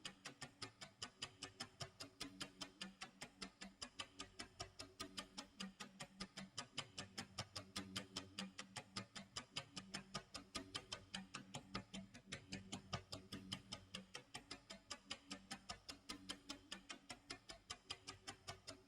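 Tick-tock clock sound effect of a countdown timer: quick, even ticks, about four or five a second, over soft low tones.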